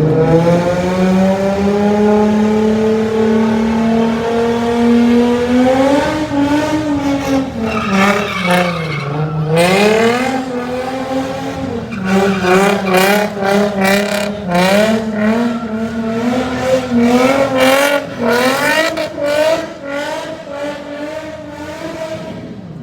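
Car engine held at high revs during a burnout, its pitch climbing, sagging about a third of the way in, then climbing and wavering, with tires squealing through the middle stretch.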